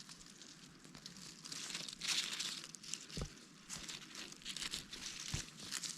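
Rustling and crinkling of garden plants and dry leaves being handled or stepped through, in irregular bursts, with a couple of soft low thuds.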